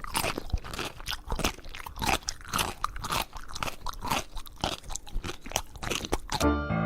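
A pet chewing crunchy food: rapid, irregular crunches, several a second, which stop about six and a half seconds in.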